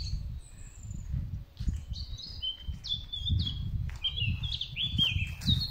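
Songbirds chirping and singing: short high notes and quick downward-sliding whistles, busiest in the second half, over an uneven low rumble.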